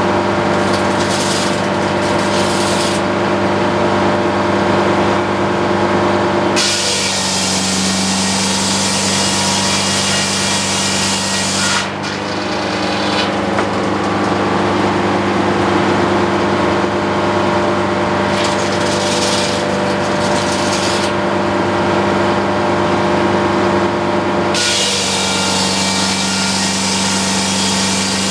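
Antique circular sawmill running with a steady engine drone, its blade sawing through a utility pole in long cuts: the hiss of the cut comes in about six seconds in, breaks briefly near twelve seconds, stops around twenty-one seconds and starts again near the end.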